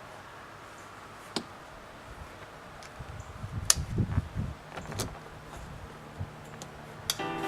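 Scattered sharp clicks and a run of low knocks and thumps from handling a sunshade's straps and buckles on the roll bars as they are pulled snug. Background music comes in near the end.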